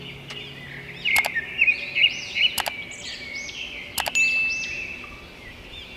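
Small birds chirping and twittering in quick, repeated short notes, with a few sharp clicks among them.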